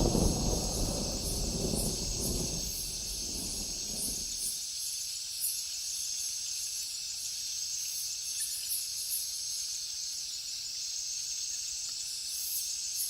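Thunder rumbling and dying away over the first four seconds or so, leaving a steady high hiss with a faint pulsing chirp above it, about two a second.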